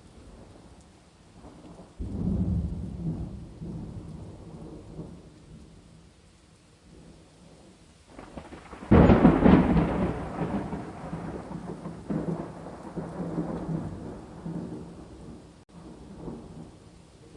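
Thunder over steady rain: a low roll of thunder about two seconds in, then a louder, sharper clap about nine seconds in that rumbles on and fades slowly.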